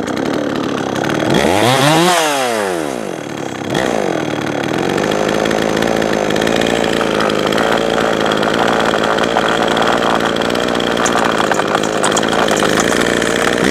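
Jonsered 525 two-stroke chainsaw revved up and back down about two seconds in, blipped once more briefly, then left running steadily.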